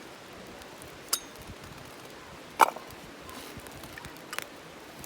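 Kitchenware clinking as it is handled: a sharp clink about a second in, a louder ringing one a little past halfway, and a couple of small taps near the end.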